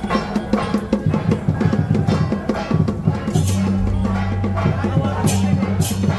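Traditional percussion music: a fast run of drum and wood-block strikes, joined about halfway by a steady low tone, with loud clashing strokes near the end.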